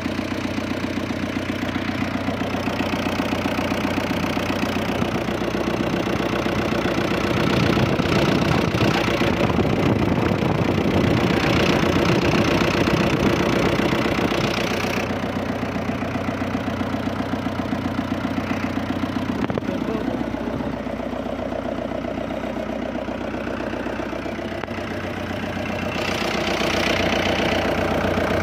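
Fiat 640 tractor's diesel engine running. It speeds up and gets louder from about a quarter of the way in to about halfway, then settles back to a lower speed, and rises again near the end.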